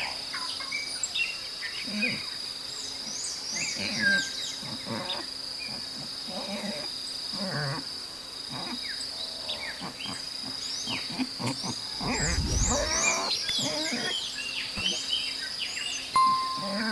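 Pigs grunting at irregular intervals over a steady high-pitched insect drone, with birds chirping.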